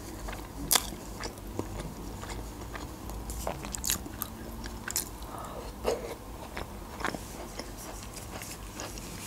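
A person chewing a mouthful of soft meat roll with cheese and potato, with short sharp mouth clicks and smacks every second or so.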